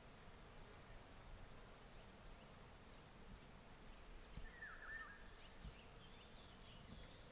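Near silence: faint outdoor ambience with a few soft bird chirps, the clearest one about halfway through.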